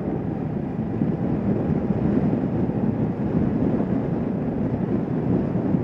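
Kawasaki Vulcan S 650's parallel-twin engine running steadily under way, mixed with wind rushing over the microphone.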